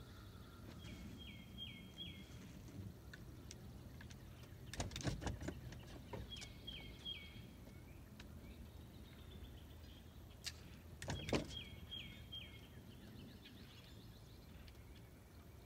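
A songbird repeating a short phrase of three or four whistled notes, each dropping in pitch, about four times. Two brief clusters of knocks and rustles, about five and eleven seconds in, are the loudest sounds.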